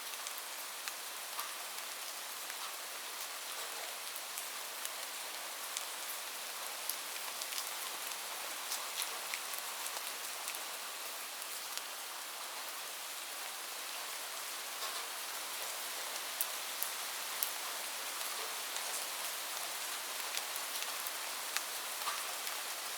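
Steady rain: an even hiss with many small, scattered drop ticks spread throughout.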